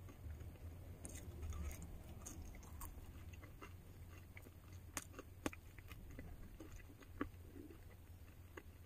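A person chewing and biting food close to the microphone, with scattered small clicks and a couple of sharper ticks about five and seven seconds in, over a faint low steady hum.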